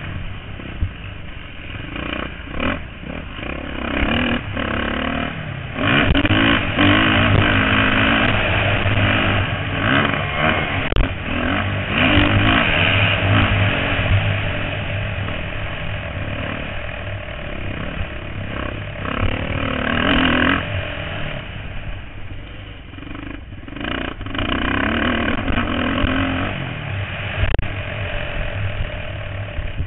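Motocross bikes racing, their engines revving up and dropping back again and again, swelling louder several times.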